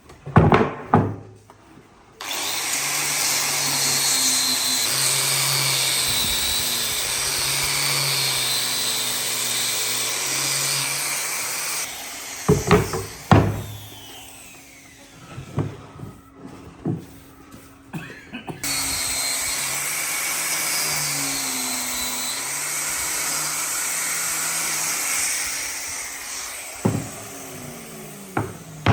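A handheld power tool runs in two long stretches, its motor hum wavering in pitch as it works, with knocks and clatter of handling in between.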